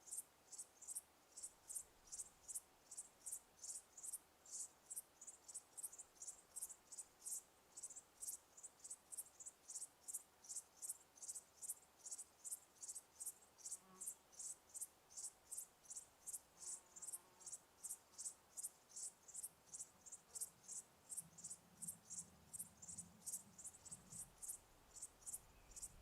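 A cricket chirping steadily in short, high-pitched, evenly spaced chirps, about three a second.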